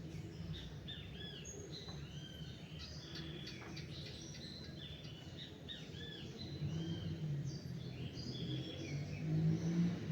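Several small birds chirping and twittering in a dawn chorus, many short arched notes overlapping, over a low steady rumble that grows louder in the last few seconds.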